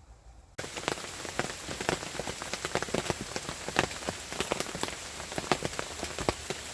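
Steady rain, a dense patter of drops hitting a surface close to the microphone. It cuts in suddenly about half a second in.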